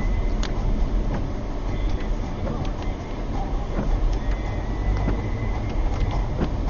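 Car driving, heard from inside: a steady low rumble of road and engine noise, with scattered faint ticks.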